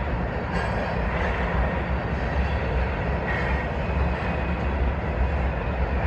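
Freight train with diesel locomotives and loaded tank cars rolling past, a steady low rumble from the engines and the wheels on the rails.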